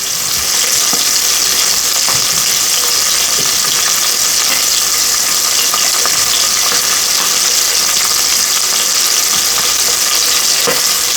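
Chicken searing in hot olive oil in a pot, sizzling steadily with a few faint crackles and pops.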